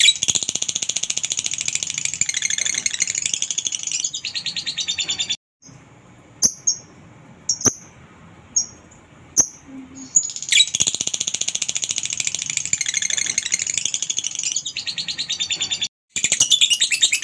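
Lovebird ngekek: long runs of rapid, high-pitched chattering song lasting several seconds each, with a few short single chirps in between, then a second long chatter and a third starting near the end.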